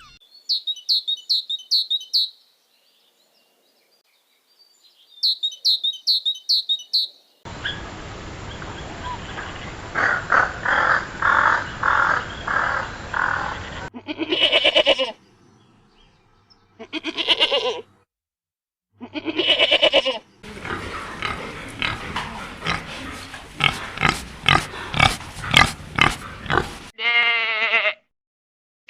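Several short animal-sound clips in turn: two bursts of rapid high chirps, then pig grunting in quick repeated pulses, then a few separate drawn-out calls and more pulsing grunts.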